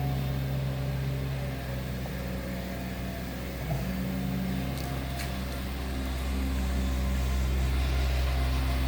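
A motor engine running steadily at a low, even hum, its pitch shifting slightly about four seconds in.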